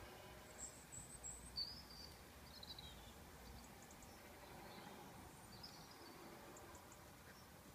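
Faint, high bird chirps and short calls over a quiet background hiss, clustered in the first three seconds with the loudest about a second and a half in, and one more call around the middle.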